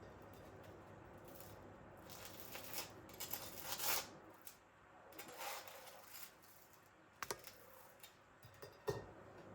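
Objects being handled: a few bursts of rustling with a couple of sharp light clicks near the end.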